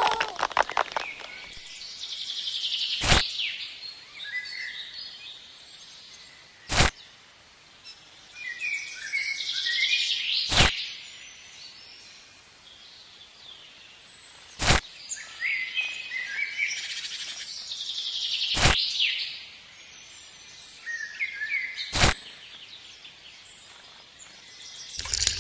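Birds chirping and calling over a faint background hiss, broken by a sharp click about every four seconds, six in all.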